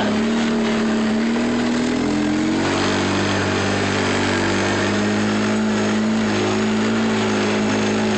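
Truck engine running while driving, a steady hum over road noise, its pitch shifting about two and a half seconds in.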